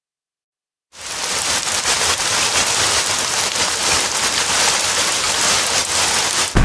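Steady hiss like heavy rain, cutting in abruptly about a second in after dead silence.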